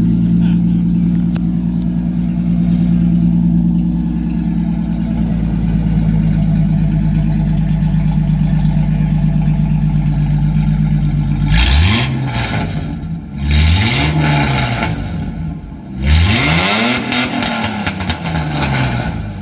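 Truck engine idling steadily, then revved three times, each rev rising and falling in pitch; the last rev is the longest and highest.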